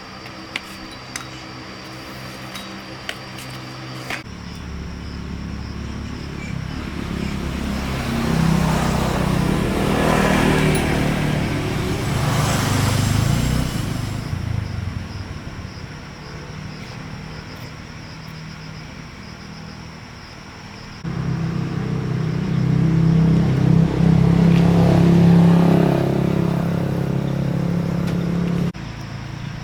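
An engine running, with evenly pitched drone. It swells and fades once near the middle, then comes in abruptly louder in the second half and cuts off shortly before the end.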